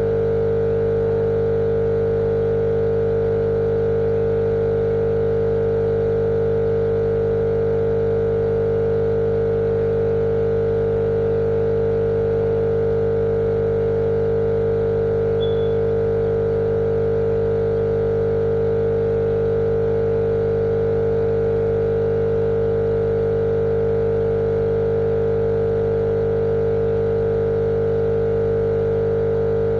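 Steady, unchanging machine drone with a strong mid-pitched hum over fainter low hum, a continuous white-noise sound for lulling a baby to sleep.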